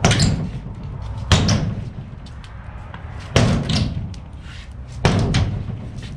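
Heavy bangs from knocking out a wooden stud wall: about four loud impacts spaced roughly one and a half to two seconds apart, each ringing on briefly.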